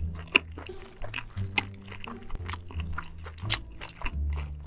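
Close-miked chewing of spicy seafood: wet mouth clicks and a few sharp crunches. Background music with a steady low bass line plays under it.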